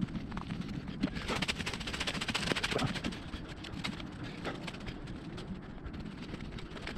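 Footsteps of a person walking over the forest floor: a dense, irregular run of crunches and snaps.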